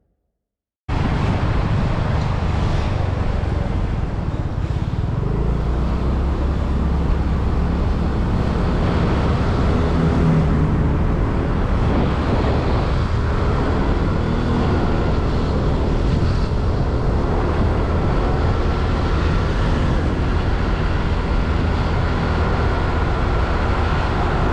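Riding a motorbike through town traffic: the bike's engine with road and wind noise, a loud, steady rumble that cuts in suddenly about a second in after a moment of silence.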